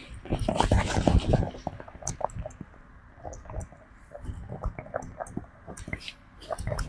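Close-miked sounds of a monkey grooming a person: many small wet clicks and squishy rustles, densest and loudest about a second in, then sparser.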